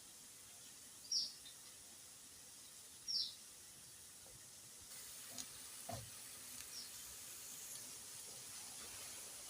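Potato and vegetable fritters frying gently in oil on low heat, a faint steady sizzle that grows slightly a few seconds in, with a few small pops. Two short, high chirps stand out, about a second in and again about two seconds later.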